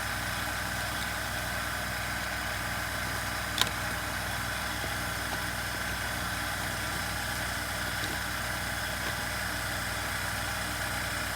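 Steady background hum of a running motor, even and unchanging, with one sharp click about three and a half seconds in.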